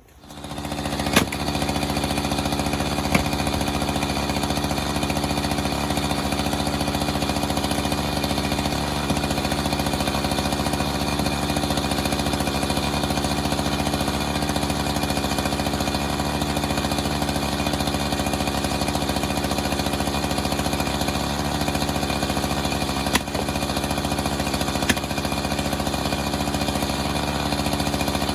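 A small engine running at a steady, unchanging speed. It comes up over the first couple of seconds, and a few light clicks sound over it.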